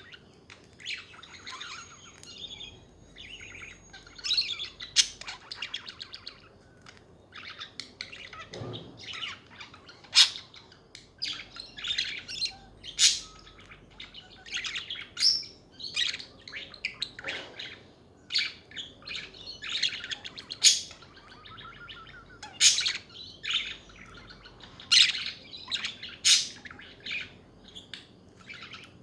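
Budgerigars chattering: a busy run of short chirps, warbles and sharp calls, irregular and overlapping.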